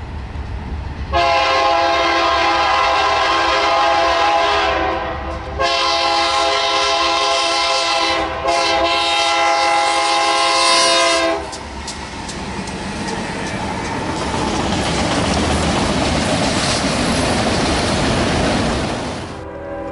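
A train horn sounds long, steady blasts, broken twice briefly, for about ten seconds. The horn stops and is followed by the rising rush and wheel clatter of the train passing close by, which swells and then drops away near the end.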